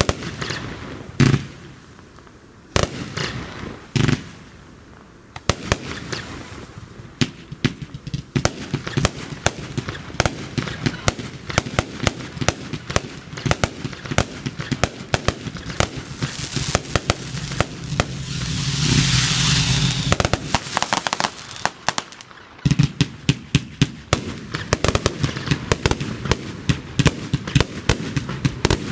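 Fireworks going off: a few separate bangs over the first few seconds, then a dense, rapid run of bursting reports. Midway a hissing rush swells and fades among the bangs.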